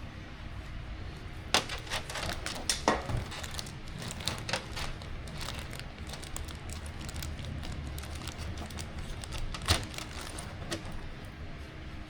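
Small screws and hard plastic parts clicking and rattling as they are sorted by hand, in scattered taps with a cluster of clicks in the first few seconds and another near the end.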